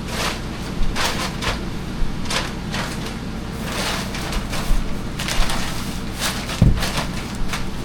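Synthetic plastic moisture-barrier underlay crinkling and rustling in irregular bursts as it is handled and spread over a floor, with one dull thump about two-thirds of the way through.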